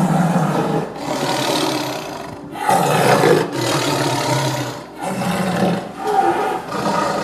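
A big cat roaring and growling in a run of about six rough calls, each around a second long with short breaks between them.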